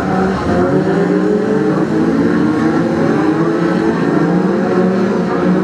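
Several Brisca F2 stock cars racing together: a pack of engines running hard, with several overlapping engine notes rising and falling as the cars accelerate and lift around the oval.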